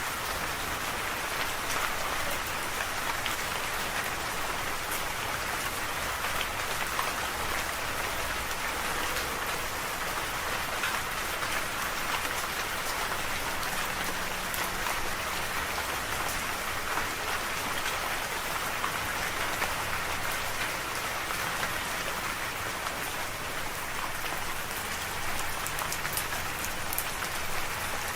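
Steady rain falling, an even hiss with fine scattered drop ticks and no change in strength.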